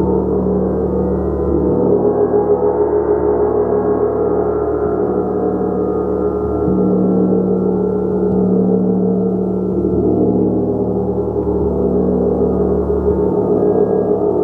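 Gong played continuously: a dense, sustained wash of many overlapping ringing tones that pulses slightly in loudness. Its low hum shifts pitch every few seconds, with no single sharp strike standing out.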